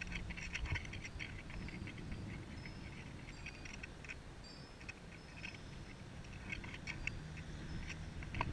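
Small birds chirping and calling outdoors in many short, quick notes and brief thin whistles. A faint low hum comes in near the end, and there is a single sharp knock just before it ends.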